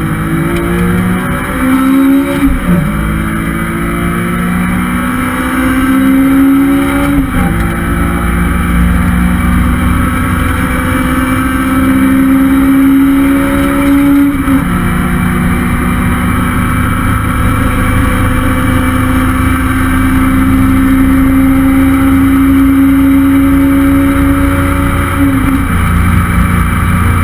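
Honda S2000's stock F20C four-cylinder VTEC engine under full acceleration, its pitch climbing steadily through each gear. It shifts up four times, about 3, 7, 15 and 25 seconds in, and each gear runs longer than the one before.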